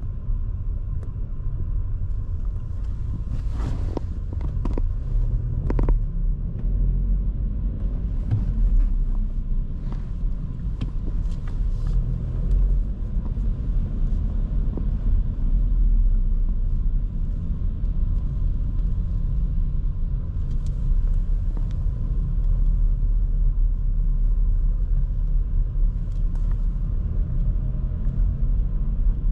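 Inside a 2023 Škoda Kamiq 1.0 TSI with its three-cylinder turbo petrol engine, driving along: a steady low rumble of engine and tyre noise, with a few sharp knocks about four to six seconds in.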